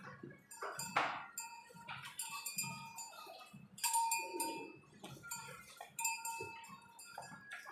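Repeated metallic clinks at the buffalo milking, about five, each ringing briefly at the same pitch, with some animal sound beneath.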